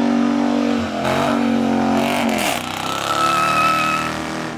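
Car engine revved high and held, its pitch falling off twice as the throttle is released, with a steady high whistle near the end.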